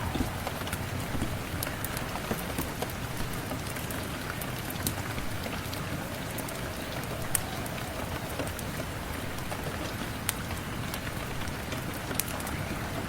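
Steady rainfall, an even hiss with scattered sharp ticks and pops, a few louder ones now and then.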